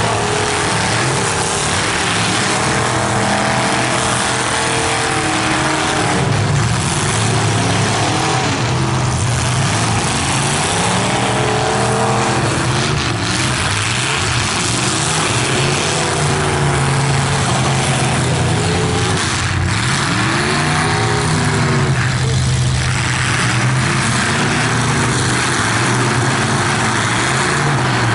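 Engines of several full-size demolition derby cars revving hard, their pitch rising and falling over and over, loud and continuous.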